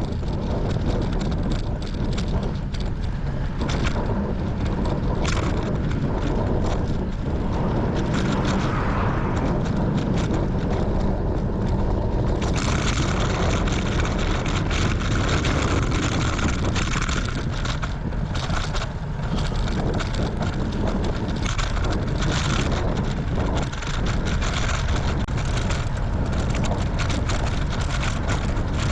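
Strong wind buffeting the microphone on a moving bicycle, a loud rumbling roar heaviest in the low end, with more hiss coming in about twelve seconds in.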